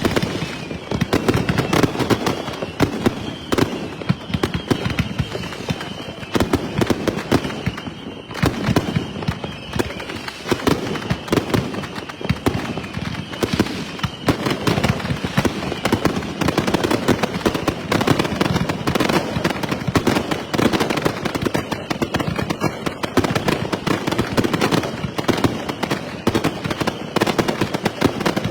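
Consumer firework cakes firing in rapid succession: a dense, unbroken barrage of launch thumps and aerial bangs and crackles overlapping one another.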